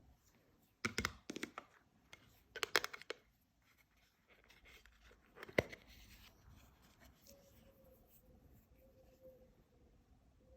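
Pressed eyeshadow being crushed: two short bursts of crackly crunching, about a second in and about three seconds in, then a single sharp crack past the middle. A faint steady hum follows in the second half.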